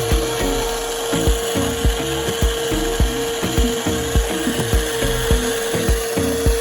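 Steady whine of a small electric motor, the RC concrete mixer truck running, over background music with a regular beat of about three thumps a second.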